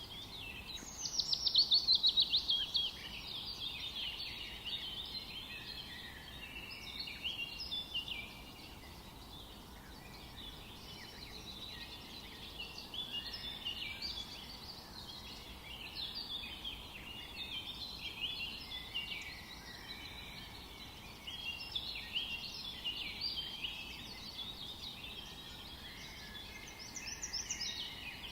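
A chorus of songbirds singing over faint forest background noise, with many overlapping chirps and trills; a loud, rapid falling trill stands out about a second in and another burst comes near the end.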